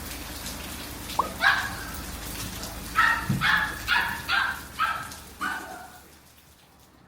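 A dog barking in a quick run of about seven barks, preceded by a brief rising whine.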